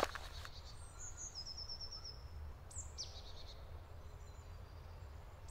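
Small songbirds calling in a forest: a quick run of high, even chirps about a second and a half in, a falling whistle around three seconds, and more high calls near the end, over a faint low rumble of outdoor background. A single sharp click right at the start.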